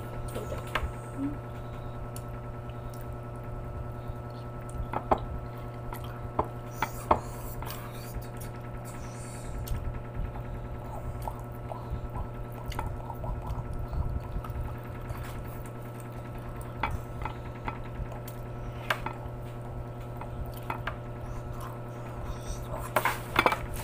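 Wet chewing and lip-smacking of someone eating pork leg and rice by hand, with scattered short mouth clicks. A steady low electrical hum runs underneath.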